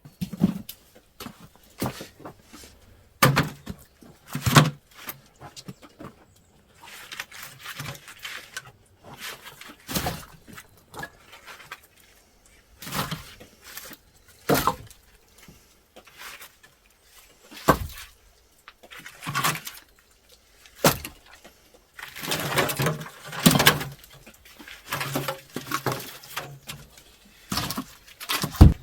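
Irregular knocks and clatter, a loose series of separate impacts with pauses between them, with a longer rough, scraping stretch a little past two-thirds of the way through.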